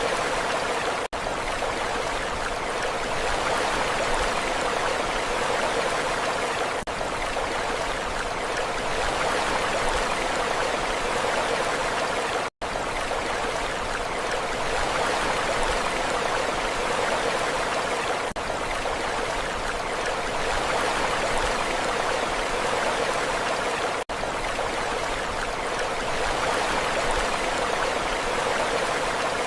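Steady rushing water noise, even and unbroken apart from a few momentary dropouts, the deepest about halfway through.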